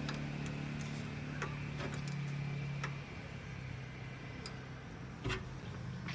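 An engine running steadily, then dropping away about three seconds in, with scattered light clicks and a louder knock near the end.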